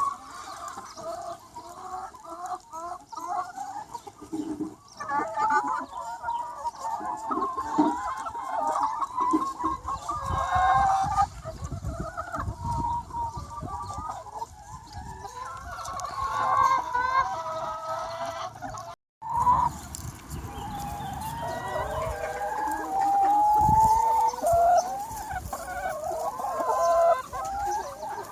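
A large flock of free-range hens clucking continuously, many birds calling over one another. The sound cuts out for a split second about two-thirds of the way through.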